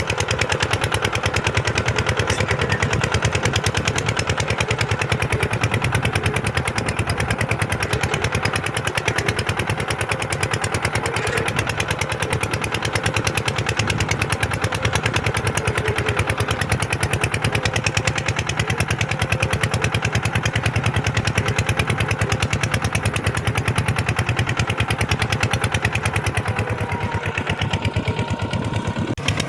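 Tractor diesel engine running steadily, a fast even firing beat throughout.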